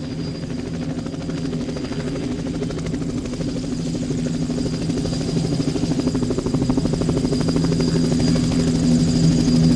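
A motor running steadily with a fast, even pulse and a low hum, growing gradually louder.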